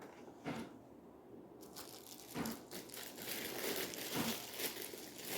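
Crinkling and rustling of packaging while the parts of a shower filter kit are handled, with a few light knocks.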